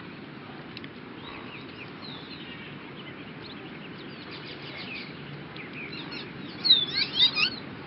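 Small birds chirping, scattered short calls over a steady outdoor background hiss, with a louder run of quick chirps and trills near the end.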